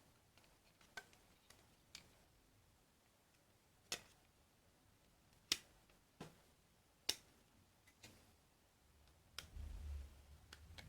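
Scattered sharp clicks and light taps of small tools being handled on a workbench, about ten in all at irregular intervals. A low rumble of handling noise comes in near the end.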